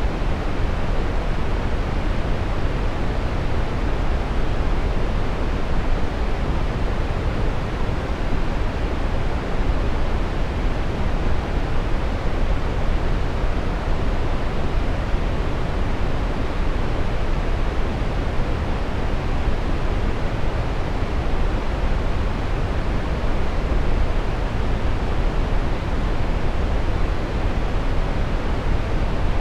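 Steady brown noise: an even, unchanging rumbling hiss, strongest in the low end and dull at the top.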